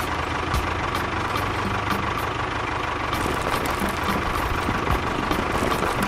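Tractor engine sound running steadily at an even pace, with a faint steady whine above it.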